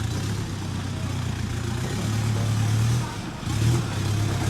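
Off-road vehicle's engine running steadily, easing off briefly about three seconds in and then picking up again.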